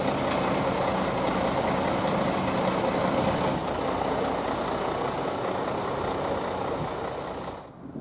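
Diesel railcar passing close by: its engine running with a steady low hum over a broad rumble. The sound drops away abruptly near the end.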